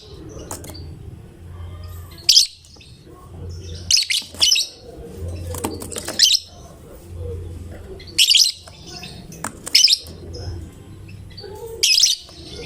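Lovebird giving short, shrill, piercing chirping bursts about seven times, one every one to two seconds, with softer chatter in between over a low hum.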